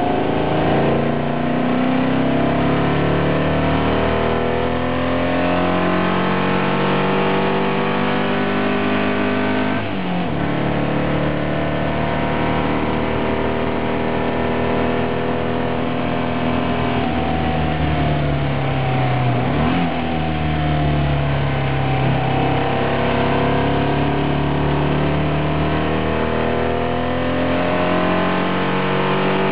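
Engine of a VW-engined racing special heard on board under hard acceleration, its pitch climbing through the revs. It drops sharply at a gear change about ten seconds in, then falls and climbs again through a corner about two-thirds of the way through.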